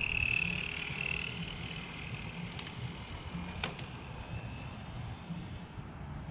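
Small electric RC car's motor whining as it drives. The pitch climbs with speed from about four seconds in, then begins to fall near the end. A single sharp click comes about three and a half seconds in.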